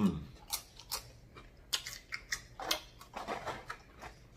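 Close-up eating sounds: chewing a steak and quinoa bowl with wet lip smacks and clicks, and a brief 'mm' at the start as food is sucked off a fingertip.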